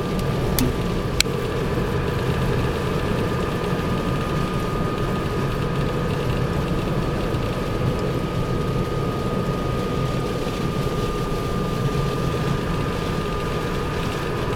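Steady road and engine noise inside a Mazda 6 driving on Blizzak snow tires over snowy roads: an even rumble with a thin, steady high whine running under it. There is a sharp click about a second in.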